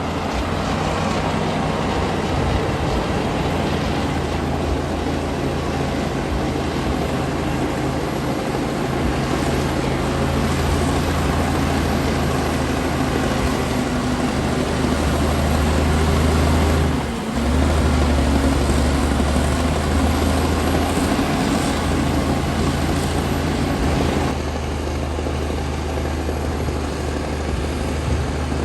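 Komatsu D60P bulldozer's diesel engine running steadily under load as it works. The engine note dips for a moment a little past halfway and eases slightly near the end.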